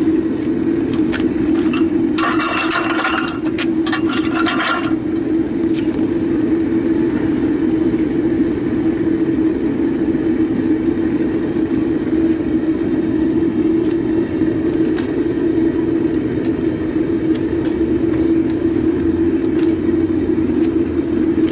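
Propane burner firing into a homemade melting furnace, running steadily. From about two to five seconds in, a run of metallic clinks and scrapes.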